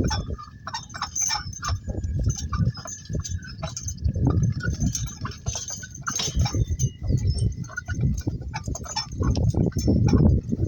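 Donkey-drawn work cart rolling along: a rough, uneven rumble with many irregular clinks and jingles from the cart and harness hardware, and a faint steady high tone running through.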